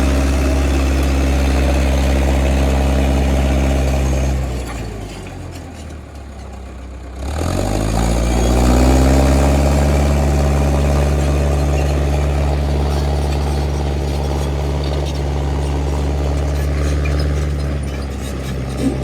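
Heavy diesel engine running steadily, then winding down about four seconds in and, a few seconds later, starting and revving back up to a steady run.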